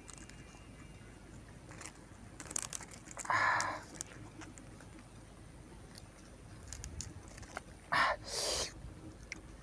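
Mouth sounds of a person eating spicy grilled fish: scattered lip smacks and chewing clicks, with short breathy gasps and huffs about three seconds in and twice near the end, as after very hot chilli.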